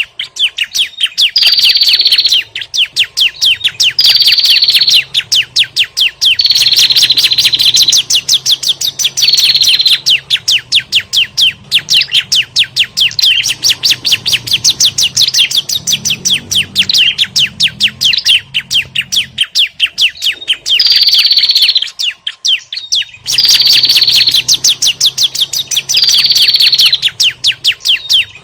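Looped lure recording of agitated prinia calls (prenjak combined with ciblek), used to draw small birds in for trapping. A fast, continuous chatter of sharp chip notes, about ten a second, with a short falling whistle roughly every two seconds and two brief breaks in the second half.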